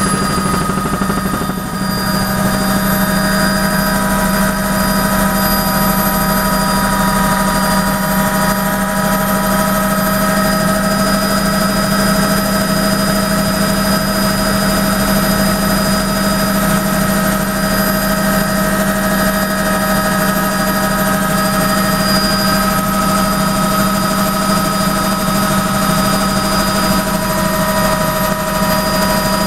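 Helicopter in steady flight, heard from inside the cabin: a constant loud drone with a strong low hum and several steady high whining tones from the turbine and gearbox.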